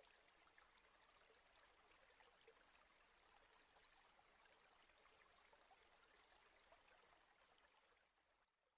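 Near silence: a faint, even hiss with light crackle that fades out near the end.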